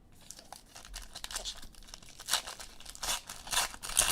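Plastic card-pack wrapping crinkling and rustling as it is handled, in a run of crackles that grow louder, with several sharp ones in the second half.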